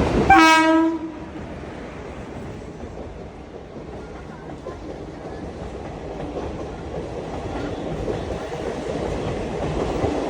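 The Gujarat Superfast Express's locomotive horn sounds one short blast. The train then rumbles steadily along the track, growing louder toward the end.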